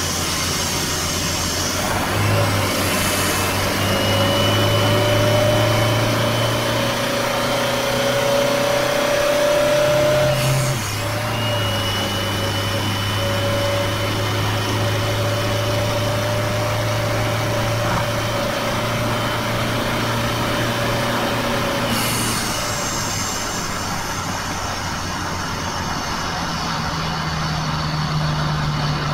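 Toyota 2KD four-cylinder turbodiesel running at highway speed, heard from inside the cab with steady tyre and road noise; its pitch steps down about a third of the way in and rises again near the end. A faint high whine comes and goes, and a few vehicles whoosh past.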